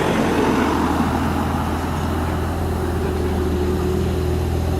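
A car engine idling steadily, with an even low hum.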